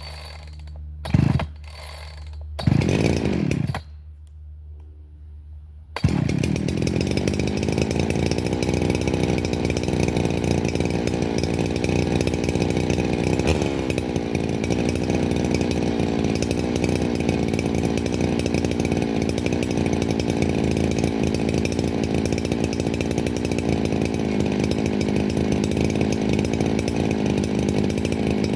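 Craftsman 3.7 two-stroke chainsaw idling with a few quick throttle blips and a short rev. At about six seconds it goes to full throttle and runs steadily under load, cutting through hard white oak with a chain whose rakers are set high, at about 16 thousandths.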